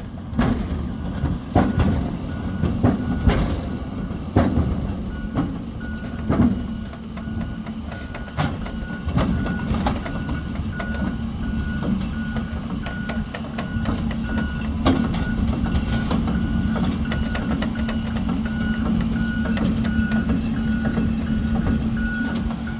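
Excavator's travel alarm beeping about once a second over its running engine as it is driven onto the trailer. The beeps start about five seconds in, after several sharp knocks.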